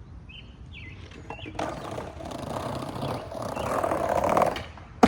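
Skateboard wheels rolling over pavement, growing louder for about three seconds before stopping abruptly, then a single sharp clack of the board near the end.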